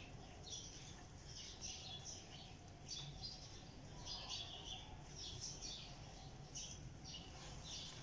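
Small birds chirping in short, irregular calls again and again, over a low steady background rumble.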